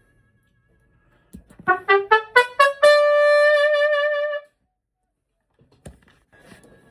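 A trumpet playing a quick rising run of about seven short notes into a long held high note with vibrato, which cuts off suddenly. A single knock follows about six seconds in.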